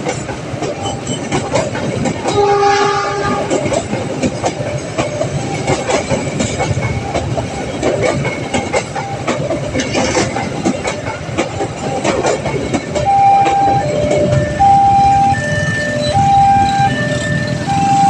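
A train running past over the level crossing, its wheels clicking over the rail joints, with a short blast of the locomotive horn a couple of seconds in. From about 13 seconds in, the crossing's electronic gate alarm sounds: a repeating two-tone chime that alternates a higher and a lower note about every half second.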